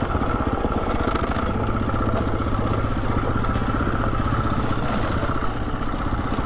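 Single-cylinder four-stroke engine of a Husqvarna 350 FE dirt bike running at a steady speed, holding an even pitch.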